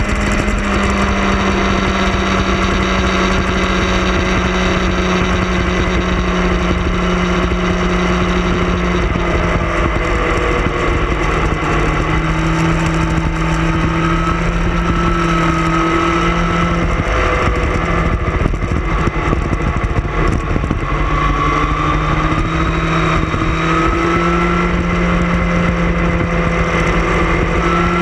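Motorcycle engine running at road speed through curves. Its note falls around the middle and climbs again near the end as the throttle changes, with wind buffeting the bike-mounted microphone.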